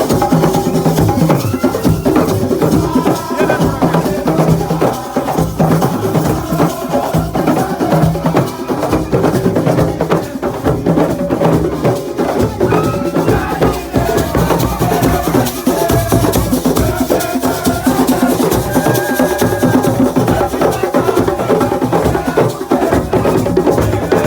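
Live assiko percussion: hand-played drums with sharp, wood-block-like strikes keeping a dense, fast beat throughout.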